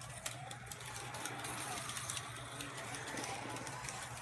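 Carrera Digital 132 slot cars running on the track: a faint electric-motor whine rises and falls as the cars speed up and slow down, with scattered light clicks over a steady low hum.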